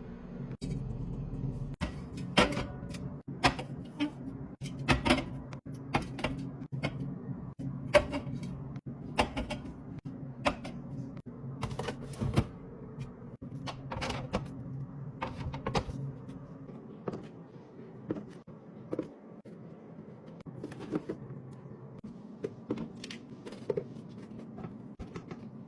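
Containers and packages being set down and arranged on refrigerator shelves: many irregular clicks and knocks, over a steady low hum that fades out about two-thirds of the way through.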